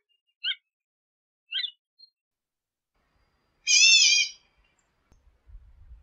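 Bird calls: two short notes about a second apart, then a louder, longer wavering call a little past the middle.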